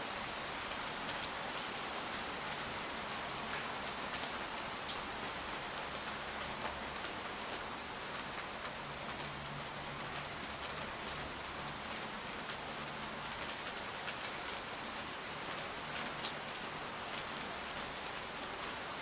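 Steady rain falling: an even hiss with many single drops ticking sharply.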